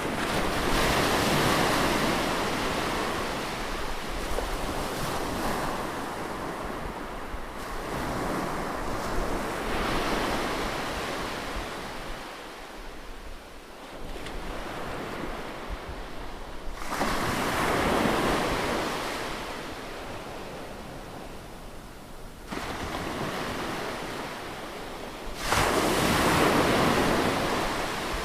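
Ocean surf: waves break one after another, each a surge of rushing water that swells and fades, about every eight seconds.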